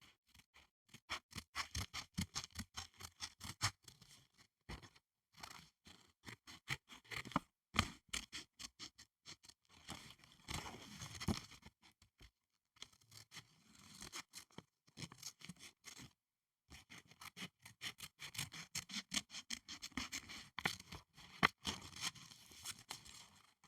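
Fingernails rapidly tapping and scratching on school supplies, in fast runs of crisp clicks with a few short pauses between them.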